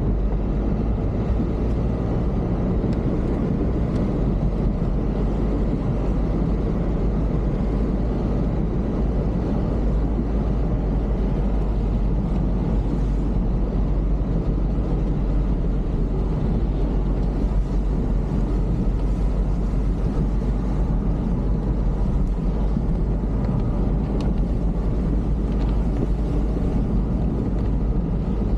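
A vehicle in motion: a steady low rumble of engine and road noise with no break or change.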